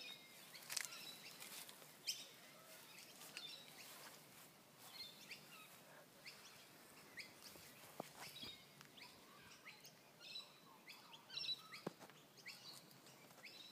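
Faint, scattered bird chirps and calls over quiet background noise, with a few sharp clicks.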